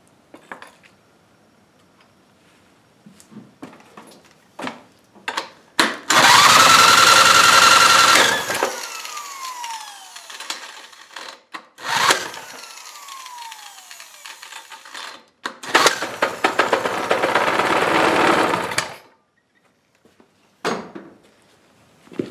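A handheld electric power tool, like a drill, run in three bursts. Its motor spins up with a rising whine and winds down with a falling whine after each release. Light clicks and clatter of handling come between the bursts.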